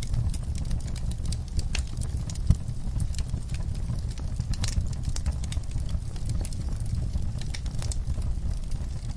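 Wood fire burning in a fireplace: a low steady rumble of the flames with irregular sharp crackles and pops from the logs, a louder pop about two and a half seconds in.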